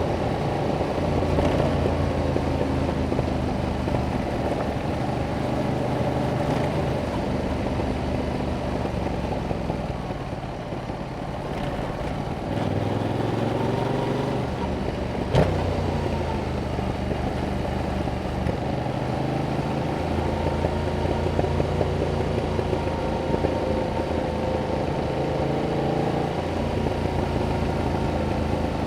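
2021 Yamaha MT-07's 689 cc parallel-twin engine through its stock exhaust, ridden on the road with the revs rising and falling through the gears. The engine eases off for a couple of seconds near the middle and then pulls hard again. A single sharp click comes shortly after.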